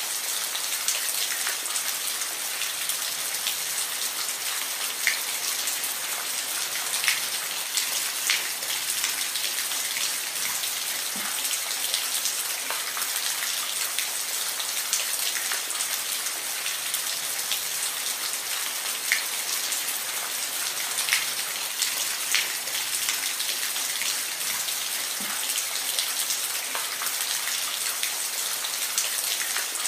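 Steady rain, a constant high hiss with scattered sharper drops ticking on a surface.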